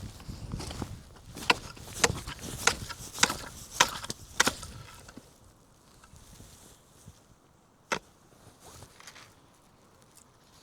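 A run of about six sharp knocks, a little under two a second, dying away after a few seconds; one more sharp knock comes later.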